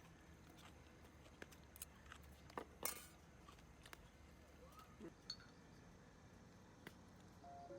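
Near silence with a few faint, scattered clicks and knocks, the loudest about three seconds in.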